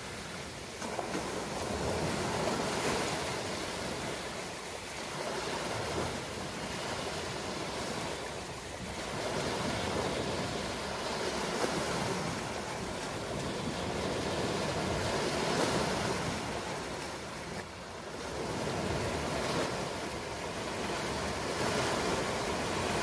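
Ocean waves breaking on a shore, a steady wash of surf that swells and eases every few seconds.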